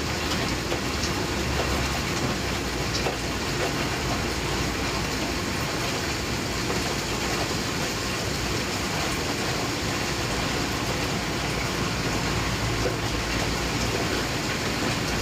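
Heavy rain falling steadily during a thunderstorm: an even, unbroken rushing hiss.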